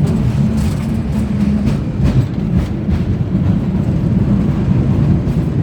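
San Francisco cable car running along its track: a steady low rumble with rattling and scattered clicks.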